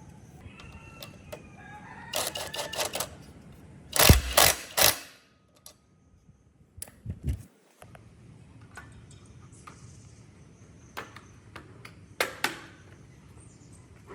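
Restoration-workshop sounds: a series of sharp clicks and clattering knocks, loudest about four seconds in, with further knocks later. A short call that wavers in pitch sounds in the first two seconds.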